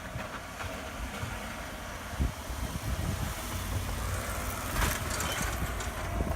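Engine of a snow-plowing vehicle running steadily, with irregular low rumbling and a brief louder rush of noise about five seconds in.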